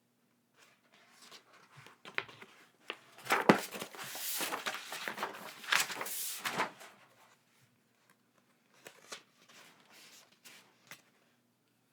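Packaging being handled and torn open: irregular crinkling and rustling with sharp little clicks, loudest between about three and seven seconds in, then softer scattered handling noises.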